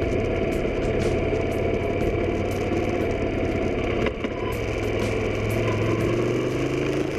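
Motorcycle engine running steadily, its pitch rising over the last couple of seconds as the revs climb; the sound starts and stops abruptly.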